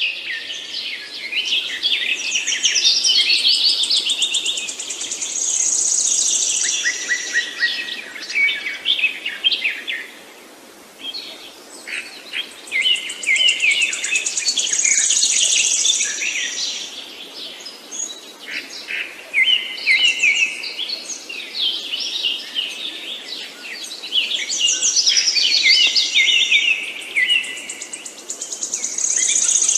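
Songbirds singing with rapid chirps and trills in long bouts that ease off briefly about ten seconds in and again around eighteen seconds, over a faint steady background hiss.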